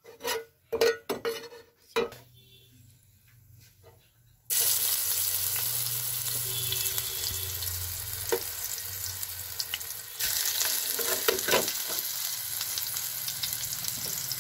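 Ginger-garlic paste dropped into hot oil, which bursts into loud, steady sizzling about four and a half seconds in after a few sharp knocks. The sizzle steps louder again near ten seconds as a second spoonful goes in.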